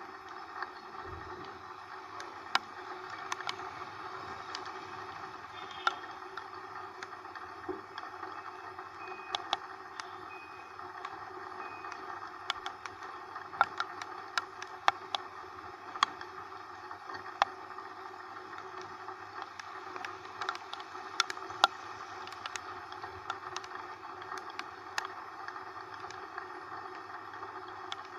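Riding a motorcycle through rain: a steady wash of engine, wind and wet-road noise, with many irregular sharp ticks scattered over it.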